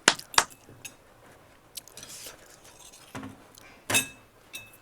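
Cutlery clinking against a plate a few times while eating, with a sharp ringing clink about four seconds in and a lighter one just after.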